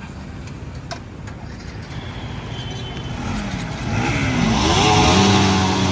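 Motorcycle engine accelerating and growing louder from about three seconds in, its pitch rising, dipping and rising again as it shifts up through the gears.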